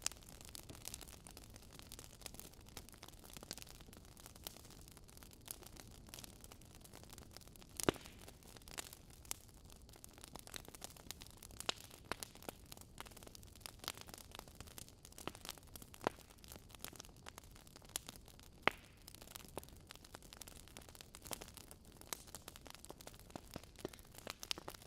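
Fire crackling: irregular snaps and pops over a soft steady hiss, with a few louder pops about 8, 12 and 19 seconds in.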